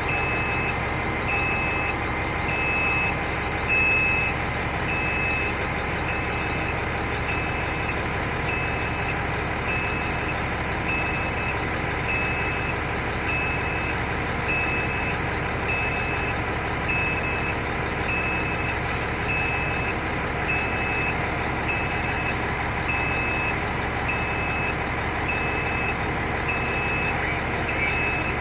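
Self-propelled oil barge's diesel engine running steadily, with a short electronic beep repeating about every second and a half.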